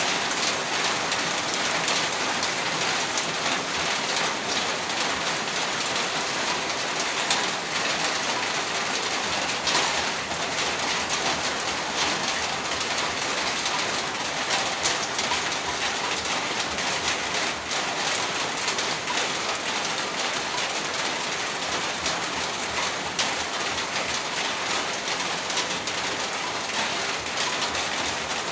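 Heavy rain falling steadily, a dense hiss of countless drops striking a surface, with sharper individual drop impacts scattered throughout.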